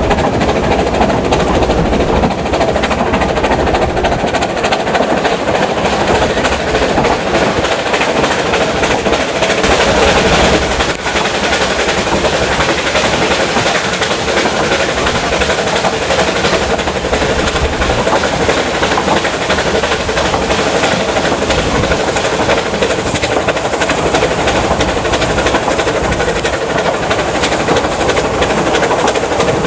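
Vale of Rheidol narrow-gauge steam train, hauled by 2-6-2T locomotive No. 8, running along the line. The rail noise and wheel clatter are loud and steady, and the hiss turns brighter about ten seconds in.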